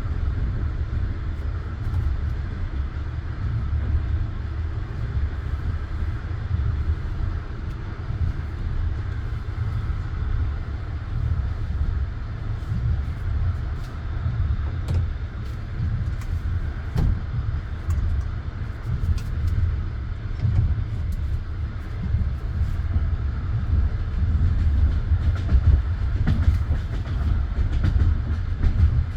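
Passenger railway carriage running along the track: a steady low rumble of wheels on rails, with scattered clicks and knocks as the wheels cross rail joints.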